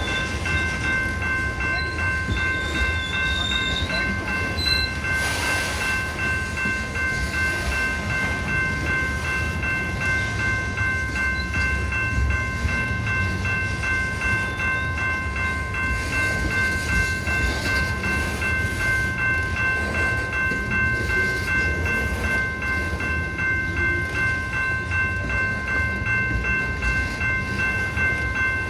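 A train rolling past with a steady low rumble, while several steady high ringing tones hold without a break.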